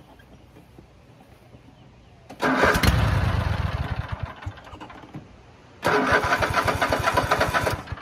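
Riding lawnmower's electric starter cranking the engine twice, each try about two seconds of rapid, even chugging, without the engine catching. It won't start because the tank is out of gas.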